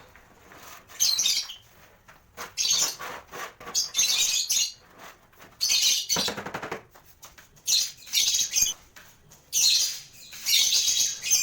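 Caged lovebirds calling: a run of short, shrill, noisy chirps about once a second. A fuller, lower burst comes about six seconds in.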